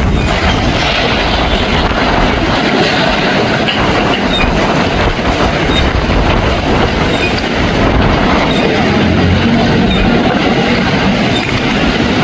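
Floodwater rushing through a swollen creek, a loud, steady noise without a break.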